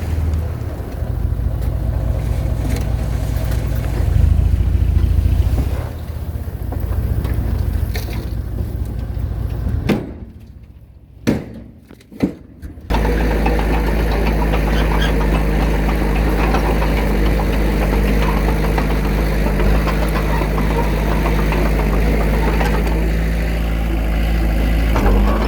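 Diesel engine of an earth-moving machine running. It works unevenly for about ten seconds, drops away suddenly with a couple of knocks, then runs on steadily from about halfway through.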